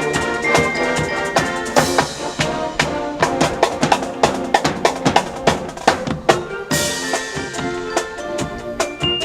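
Band music with a drum kit keeping a steady beat under sustained wind and brass notes.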